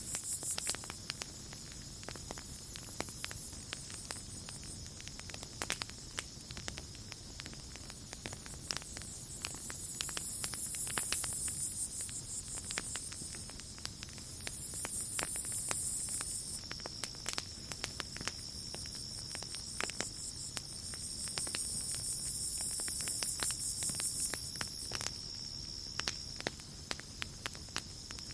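Campfire crackling with scattered sharp pops, over night insects: a steady high cricket trill, and a higher insect buzz that comes and goes in stretches of two to four seconds.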